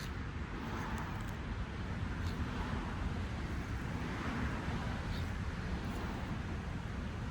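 SCX24 micro RC crawler's electric motor and gears whirring in repeated bursts as it tries to climb out of a stuck spot, over a steady low rumble.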